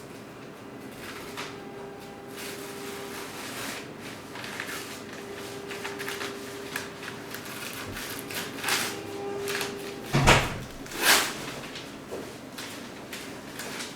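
Short scrapes and rustles of hands and tools being handled on a workbench, with a heavier thud and then a sliding scrape about ten seconds in, over a faint steady hum.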